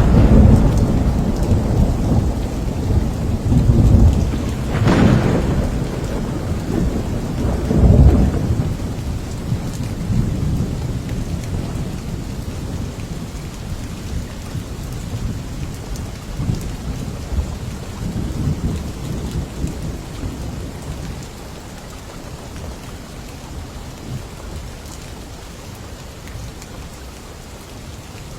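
Thunder rolling over steady rain: a long low rumble with two sharper claps about five and eight seconds in, dying away over the following seconds until only the even hiss of rainfall is left.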